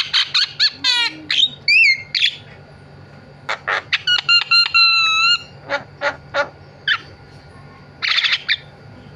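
Javan myna (jalak kebo) singing a varied song: quick runs of repeated notes, a fast sweeping trill, whistled up-and-down glides and harsh raspy chatter, broken by short pauses.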